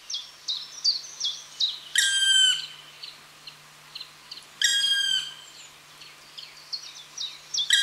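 Woodland birdsong: one bird repeats short high chirps in a quick steady run, while another gives a louder, slightly falling call rich in overtones about two seconds in and again near five seconds.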